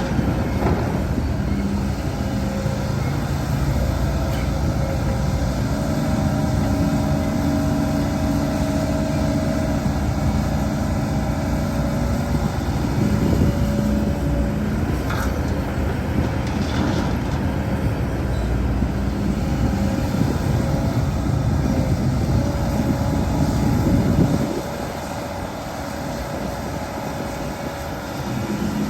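Heavy diesel earthmoving machinery working: a continuous engine drone whose pitch rises and falls as the load changes. It drops off about 24 seconds in and picks up again near the end.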